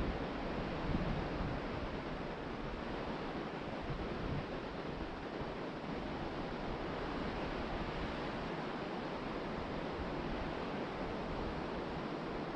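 Ocean surf breaking and washing up on a beach as a steady rush, with wind rumbling on the microphone about a second in.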